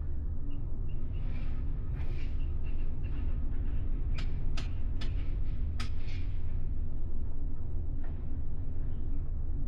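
Steady low drone of a ferry's engines and hull vibration, heard from inside a passenger cabin, with a few short sharp clicks about halfway through.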